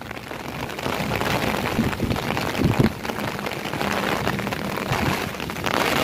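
Heavy monsoon rain falling steadily, an even hiss of rain.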